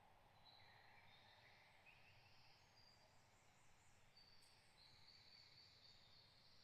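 Faint songbirds singing: a scatter of short, high notes and brief trills at several pitches over a soft, steady background.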